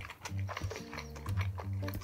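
Close-miked wet chewing of a mouthful of food with the mouth closed, in a run of short clicks, over background music with held low notes.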